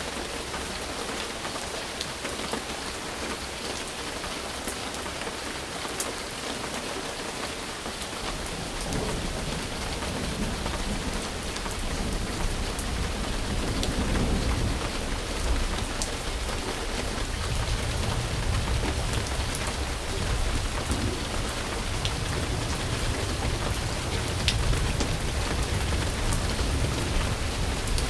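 Steady heavy rain falling, with scattered sharp drop ticks. About eight seconds in, a low rumble of thunder builds up under the rain and keeps rolling.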